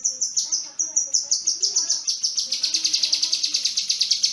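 Kinoi songbird calling: a fast string of sharp, high chirps that about halfway through runs into a dense, very rapid trill of short falling notes.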